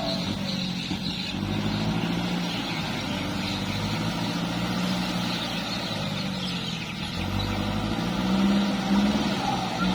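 Kubota tractor's diesel engine running steadily, its note wavering a little, briefly louder near the end.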